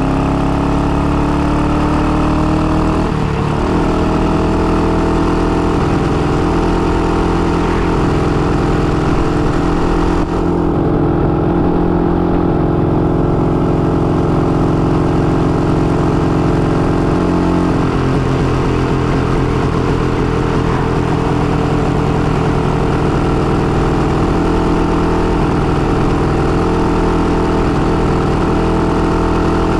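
IZh-49 motorcycle's single-cylinder two-stroke engine running under way, freshly rebuilt and bored out for a 75 mm piston and being run in gently. Its note climbs over the first few seconds, dips briefly about three seconds in, then holds a fairly steady cruising pitch.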